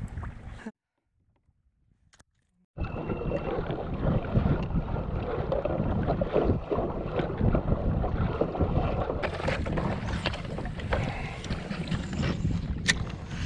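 About two seconds of dead silence at an edit, then steady wind and water noise on a fishing kayak, full of small splashes and knocks.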